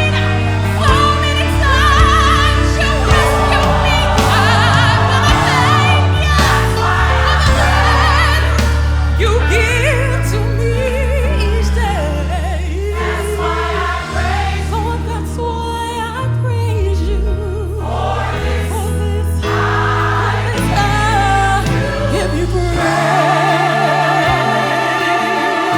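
Gospel choir and band performing a worship song, the singing full of vibrato over a bass line that moves note by note. The bass drops out near the end while the voices carry on.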